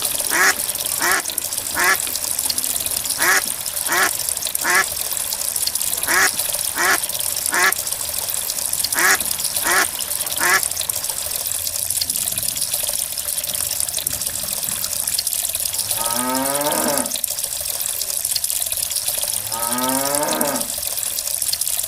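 Steady rush of running water with animal calls over it: short quacks in four sets of three during the first half, then two long rising moos near the end.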